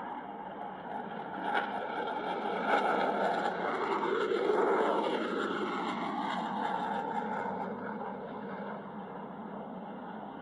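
Jet noise from an F-22 Raptor's twin Pratt & Whitney F119 turbofans as it passes. The rushing noise builds to a peak about four to five seconds in, with a sweep in pitch as the jet goes by, then fades away.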